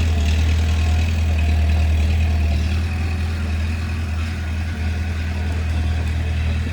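Bulldozer's diesel engine running steadily with a deep hum, easing slightly a little before halfway through.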